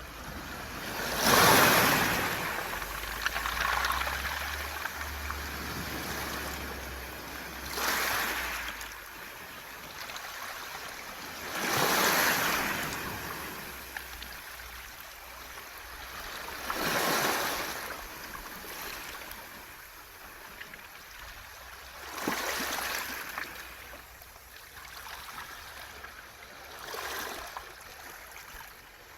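Sea waves breaking on a smooth-pebble (mongdol) beach: six rushing surges, about one every four to five seconds, each swelling and then fading back into a steady wash, with the washing sound of pebbles rolling in the surf.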